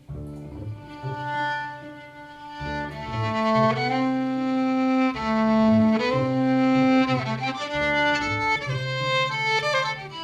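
Instrumental break: a bowed string instrument plays a slow melody of long held notes over a repeating low accompaniment.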